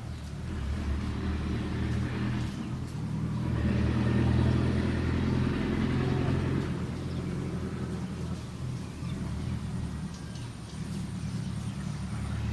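An engine running steadily, growing louder about three and a half seconds in and easing off again a few seconds later.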